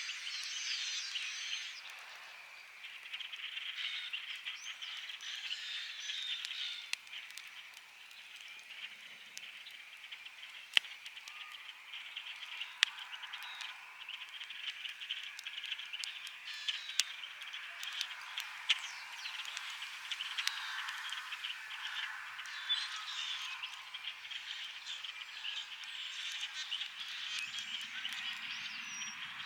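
A chorus of frogs calling steadily, with scattered sharp pops from a crackling campfire; the loudest pops come about 11 and 13 seconds in.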